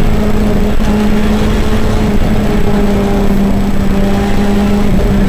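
Honda rally car's engine running hard at high, nearly steady revs, heard from inside the cabin over loud road and tyre noise; the engine note eases slightly lower near the end.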